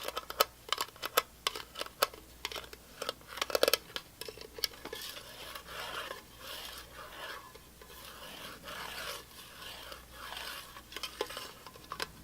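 Quick, sharp tapping for the first few seconds, turning into steady scratching about four seconds in, with the tapping returning near the end.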